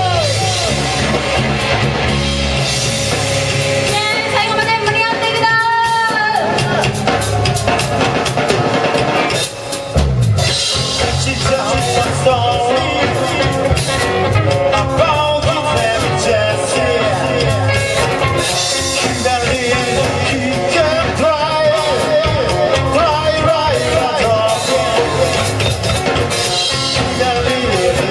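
A band playing a rock song live with singing and a drum kit, with a short break about nine and a half seconds in before the full band comes back in.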